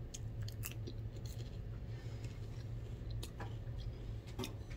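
A person chewing food, with scattered soft mouth clicks, over a steady low hum.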